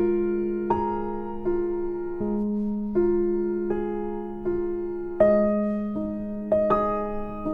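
Background music: slow, gentle solo piano or electric piano, notes struck about every three-quarters of a second and left to ring, over a held low note.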